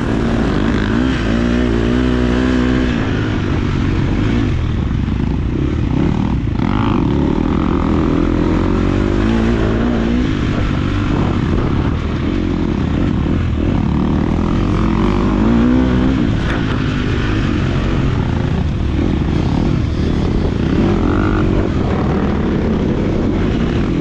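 A KTM 250 SX-F four-stroke motocross bike's engine being ridden hard, revving up and easing off again and again as the rider works the throttle and gears around the track.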